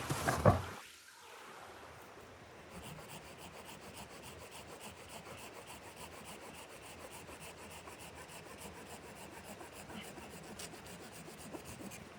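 A loud knock about half a second in, then faint, even, rhythmic scraping strokes, several a second.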